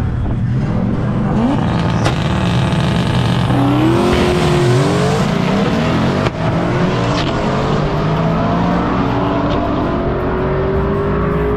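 Two Ford Mustang V8s launch side by side on a drag strip and accelerate hard away. The engine pitch climbs, drops and climbs again through the gear changes as the cars run down the track.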